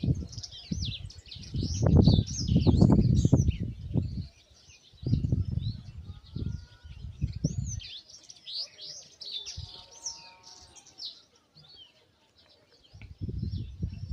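Many small birds chirping and twittering continuously, with loud, deep rumbling bursts through most of the first half and again near the end.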